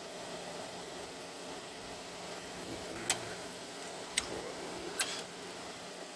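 Emerson Quiet Kool window air conditioner running on its super setting, with a steady fan noise and a low compressor hum, the compressor working. Three sharp clicks come in the second half.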